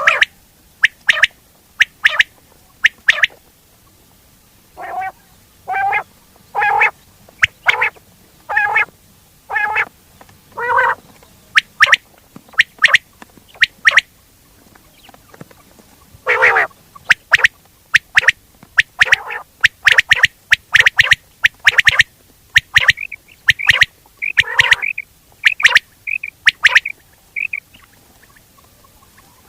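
Quail calling in a series of short, sharp pitched notes, about one a second at first. From about halfway through the notes come in a quicker, denser run, then they stop shortly before the end.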